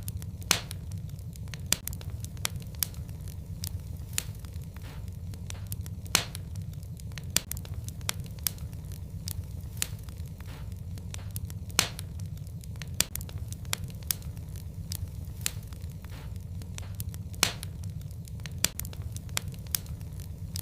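Wood fire burning in a fireplace, with a steady low rumble of flame and irregular sharp crackles and pops, several of them louder than the rest.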